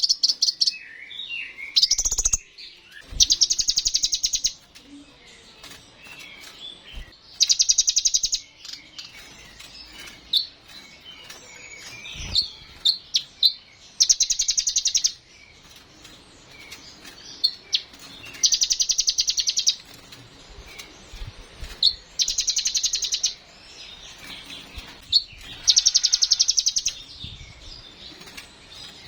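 Kolibri ninja sunbird singing: loud, rapid, high trills lasting about a second and a half, repeated every few seconds, with softer twittering chirps in between.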